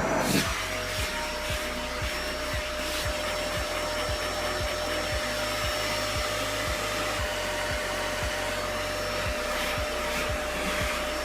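Steady rushing whir of a small electric motor blowing air, like a household appliance, with a constant hum.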